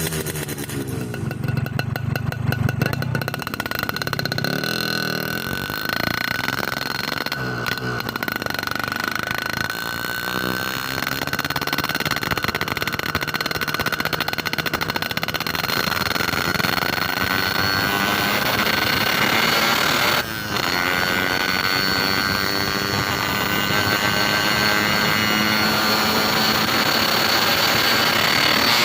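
Motorcycle with a Boban C39 aftermarket exhaust on a stock-bore engine, running steadily while being ridden, with road noise around it; the sound dips briefly about twenty seconds in.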